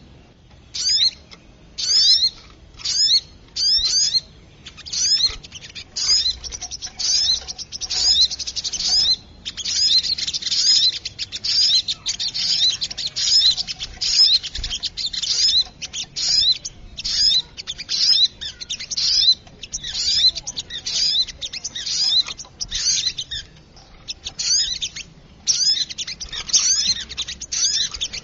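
Little spiderhunter (sogok ontong) calling: rapid runs of sharp, high chirps, at first in short bursts about once a second and then almost without a break from about a third of the way in.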